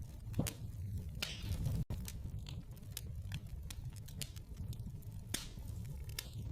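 Wood fire burning in a fireplace: a steady low rumble of flame with irregular sharp crackles and pops from the burning logs. The sound cuts out for an instant just before two seconds in.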